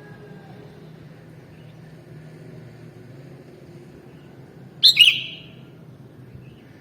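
Sooty-headed bulbul giving one short, loud double call about five seconds in, over a low steady hum.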